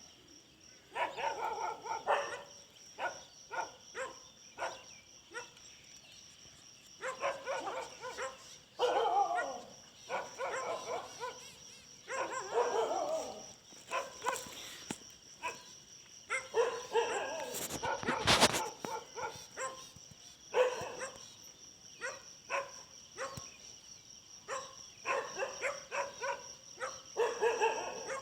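Dogs barking in short runs of repeated barks through the whole stretch, with a single sharp knock about 18 seconds in.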